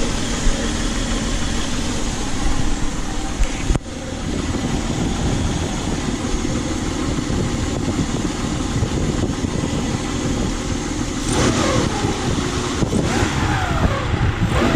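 1996 Nissan Pathfinder's 3.3-litre V6 idling, an idle the owner says is starting to stall for no reason he knows, with a brief dip in level about four seconds in. Near the end it is revved by hand at the throttle several times, the pitch rising and falling with each blip.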